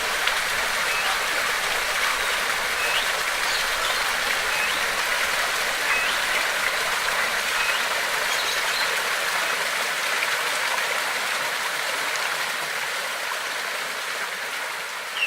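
Running water rushing steadily, with a bird giving short, high chirps every second or so over it; the whole sound fades down near the end.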